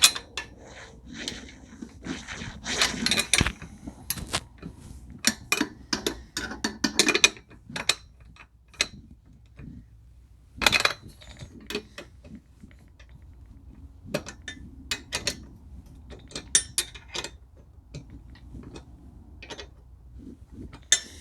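Hand tools and metal hardware being worked during table saw assembly: irregular clicks, clinks and knocks of a wrench or ratchet on nuts and bolts and of parts being handled.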